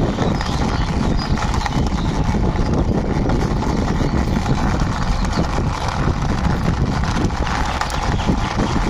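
Plastic wheels of a small toy car rolling over a rough surface as it is pushed along by hand, a steady gritty rolling noise with many small clicks and scrapes.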